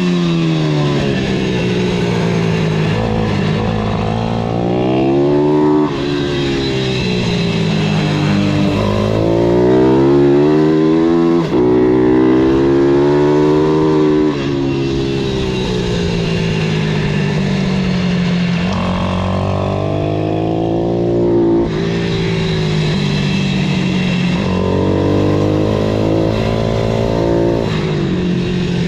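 Pit bike's small motorcycle engine revving hard, its pitch climbing and dropping over and over as the bike accelerates out of corners and backs off into them.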